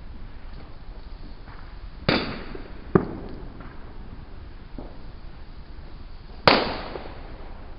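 Fireworks going off: three sharp bangs, about two seconds in, a second later and near the end, the first and last trailing off in a short echo, with a few fainter pops between them.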